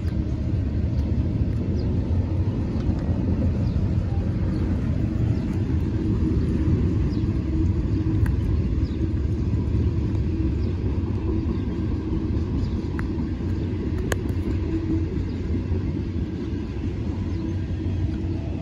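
Intermodal freight train's container cars rolling past: a steady low rumble of steel wheels on rail, with a few faint clicks along the way.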